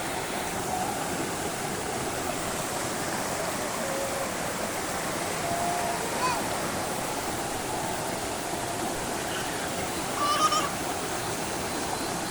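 Waterfall with a steady rush of falling water, and a short distant call of a voice or two about halfway through and again near the end.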